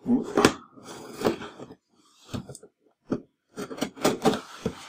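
Cardboard box being opened and its packaging handled: a run of scrapes, rustles and sharp clicks and knocks.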